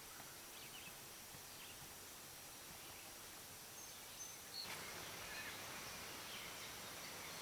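Quiet woodland ambience: faint, scattered bird chirps over a thin, steady high insect drone, with a broader hiss or rustle rising a little past halfway.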